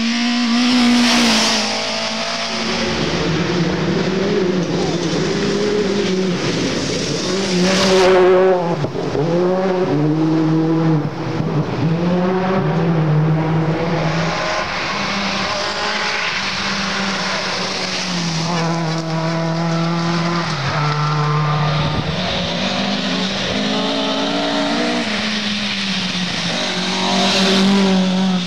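Rally cars at speed on a gravel stage, engines revving hard and dropping back again and again through gear changes and lifts. The cars are loudest as they pass close, about a second in, around eight seconds in and near the end.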